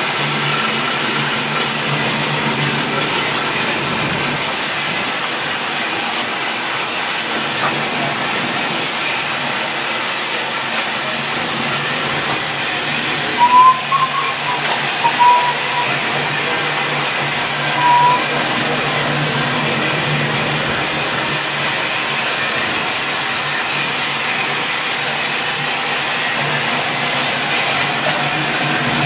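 Steady hiss of Union Pacific 844, a steam locomotive standing under steam, heard from inside the cab, with a low steady hum under it. About halfway through, a few short, high chirps cut in.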